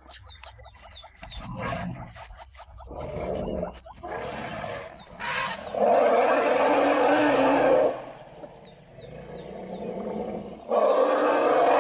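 A large animal roaring: rough, noisy calls that build through the first half, then two long, loud roars of about two seconds each, the second starting near the end.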